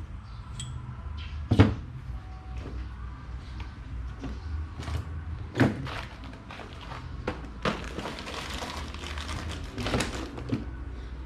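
Scattered knocks and clicks of metal parts and hand tools being handled during work on an electric fan motor's bushings, with a stretch of scraping near the end.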